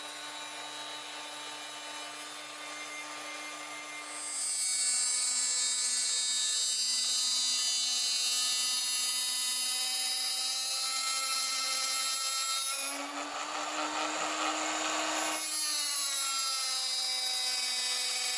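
Flexible-shaft rotary tool spinning a 1.5-inch cutting wheel: a steady whine with many overtones that gets louder about four seconds in. From about thirteen to fifteen seconds a harsher grinding noise comes in as the wheel cuts into brass sheet.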